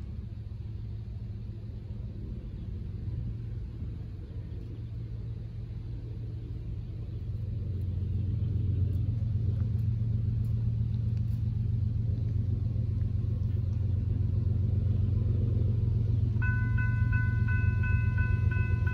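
Low rumble of an approaching diesel freight train, growing louder about eight seconds in. Near the end the grade-crossing warning bells start ringing as the crossing signals activate for the train.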